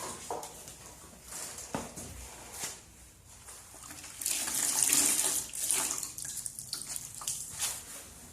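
Wet rag with soapy water scrubbing a motorcycle chain: wet swishing and rubbing strokes, with a louder stretch of scrubbing about halfway through.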